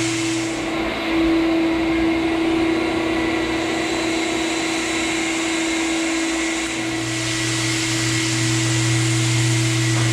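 An electric motor in floor-finishing equipment running steadily, with a constant hum. A lower drone drops out about a second in and comes back after about seven seconds.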